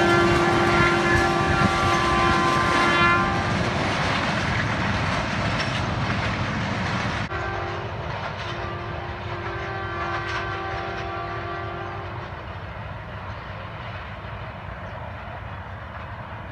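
Passenger train running away along the track, its wheels rumbling on the rails and fading as it recedes. The diesel locomotive's horn sounds a long blast at the start that stops about three and a half seconds in, then a second blast with a brief break from about seven seconds to twelve.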